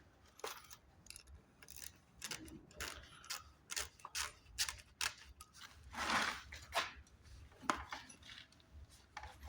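Irregular metallic clicks and knocks of hand tools and loose parts being worked on an engine, with a short scrape about six seconds in.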